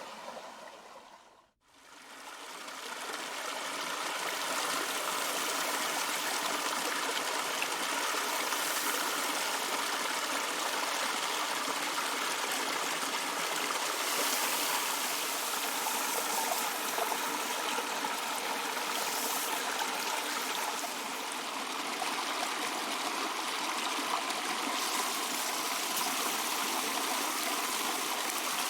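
Creek water flowing in a steady, even rush. It swells in after music fades out about a second and a half in.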